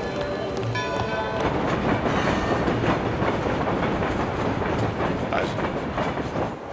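Passenger train running over a steel truss bridge: a steady rumble and clatter of wheels on the rails.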